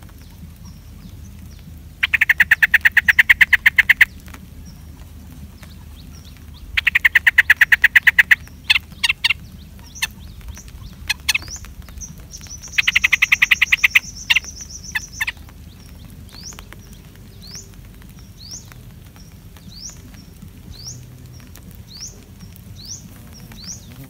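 Birds at a streak-eared bulbul nest calling: three loud, rapid chattering trills, each a second and a half to two seconds long, with a few sharp single notes after the second and third. In the last third, short rising chirps repeat about once a second.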